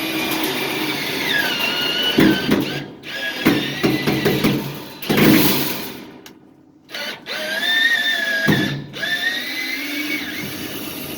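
Cordless drill driving screws: the motor whines in starts and stops, its pitch rising and falling as the trigger is eased, with short grinding bursts as the screw bites.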